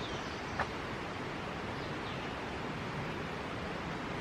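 Steady outdoor background hiss, with a faint high chirp near the start and one small knock about half a second in.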